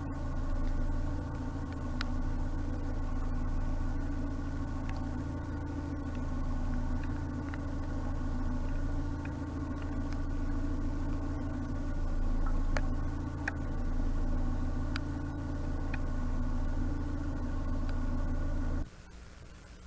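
Narrowboat diesel engine running steadily, with a few faint clicks over it; the engine sound cuts off suddenly about a second before the end.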